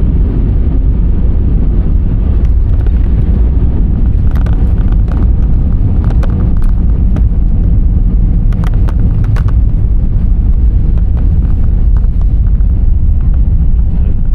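Airliner cabin noise: a loud, steady low rumble of engines and airflow, with scattered sharp clicks and rattles about a third of the way in and again around two-thirds through.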